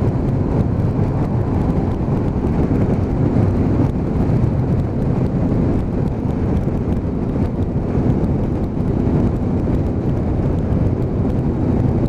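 Motorcycle engine running at steady road speed, with wind rushing over the microphone.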